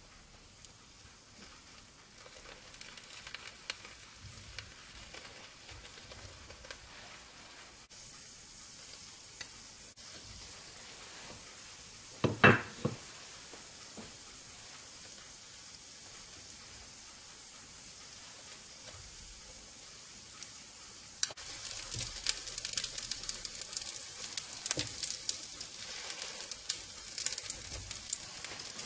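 Carrot-and-egg omelette sheet sizzling in oil in a nonstick pan: faint at first, then louder from about two-thirds of the way through, with many small pops. A single sharp knock about twelve seconds in is the loudest sound.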